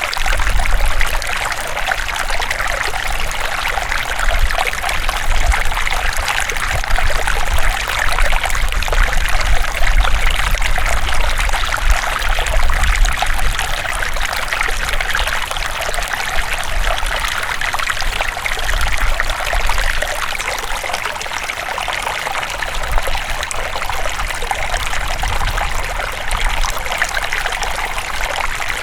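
River water flowing over rocks in a continuous, burbling stream, with a low rumble beneath.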